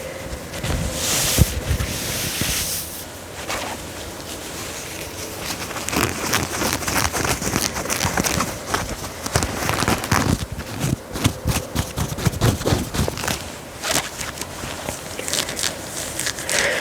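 Scratching and rubbing on the fabric of a dress: a smoother rubbing hiss at first, then quick, irregular scratch strokes.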